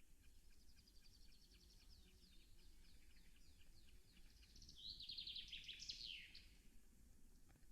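Small songbirds calling and singing faintly, with quick series of high notes and a louder, denser burst of song about five seconds in, over a low steady rumble.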